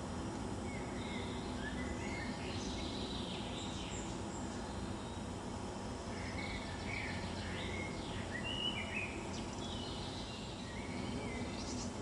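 Birds chirping on and off in short calls that rise and fall in pitch, over a steady outdoor background noise.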